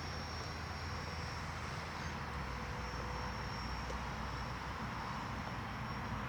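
Faint, slightly wavering high whine of an electric ducted-fan RC jet flying at a distance, over a steady low outdoor rumble.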